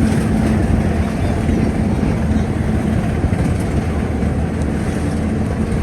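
Steady low rumble and hum of a Snowdon Mountain Railway rack train, heard from on board.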